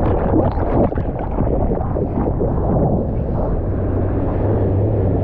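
Loud, steady rush of wind and churning ocean water on a surfer-mounted camera's microphone.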